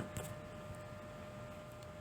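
Faint room tone: a steady hiss and low hum, with a thin steady tone running through it.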